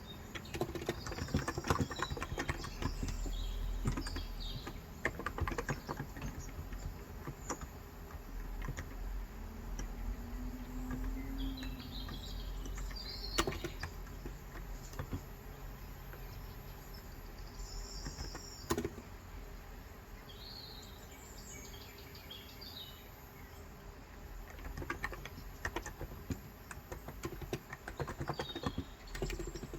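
Typing on a Cox Endeavour electro-capacitive (35 g, tenkeyless) keyboard, with dense runs of keystrokes near the start and near the end and scattered keystrokes between. Birds chirp briefly in the background several times.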